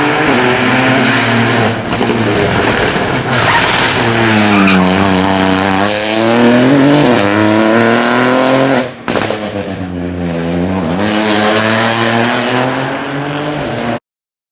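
Rally car engine revving hard at full load, its pitch falling and rising several times through gear changes, with tyre noise on the gravel or tarmac. The sound cuts off suddenly near the end.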